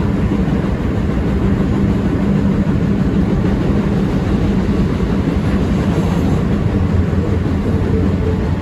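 R160B Siemens subway car running on the track, heard from inside the car: a steady loud rumble with a steady low hum.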